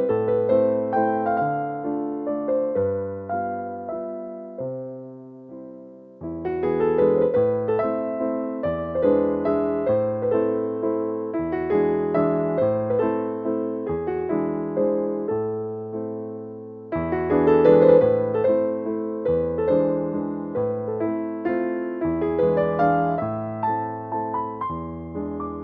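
Background music: a gentle solo piano waltz in A minor, played in phrases, with short pauses between phrases about six seconds in and again near seventeen seconds.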